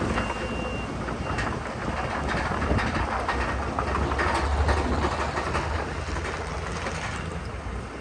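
Heavy diesel earthmoving machinery working, a deep engine rumble with rattling, clanking clatter running through it. A short high beep sounds near the start.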